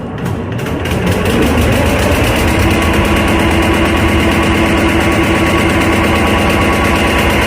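Boat engine speeding up over the first second or two, then running steadily.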